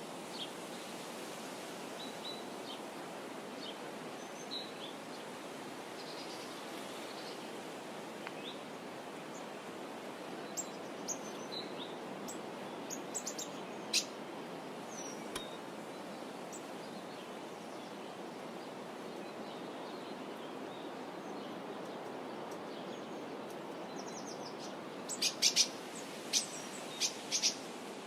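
Birds chirping now and then over a steady outdoor hiss, with a quick run of sharp, louder calls near the end.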